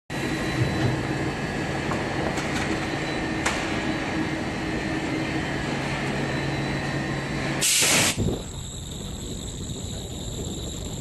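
Geocell ultrasonic welding production line running: a steady machine hum with high whines and a few sharp clicks. About two-thirds of the way in comes a loud hiss lasting about half a second, after which the low hum stops and a high whine carries on.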